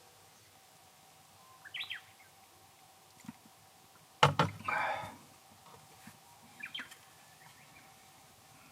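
Birds chirping in short, falling calls a couple of times, with a sharp knock about four seconds in followed by a brief rough rustling noise.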